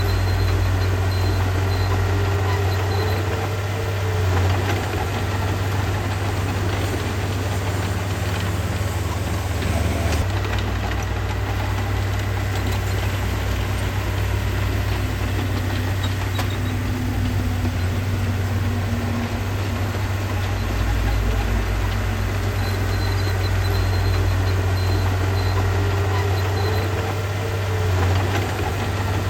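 Heavy-equipment diesel engine running steadily, with a brief rise and fall in engine note about four seconds in and again near the end.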